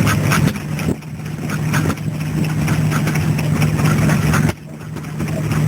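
Vintage stationary engine running at a steady speed: a low, even drone with quick mechanical ticking above it. The sound drops away suddenly a few times and then picks up again.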